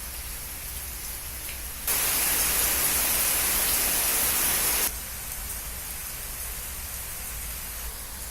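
Steady rain falling, an even hiss, with a louder, hissier stretch of heavier rain from about two to five seconds in that starts and stops abruptly.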